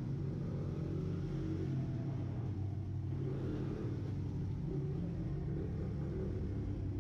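Pit bike's small single-cylinder engine running at a steady speed, a continuous low rumble with no sharp revs.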